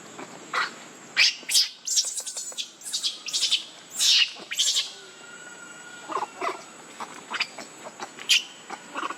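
Baby monkeys giving many short, high-pitched squeals in quick succession, in two bouts with a brief lull between them.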